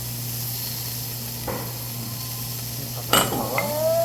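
Beef sizzling on a tabletop grill: a steady hiss over a low hum. A sharp knock comes about three seconds in, and a high voice follows near the end.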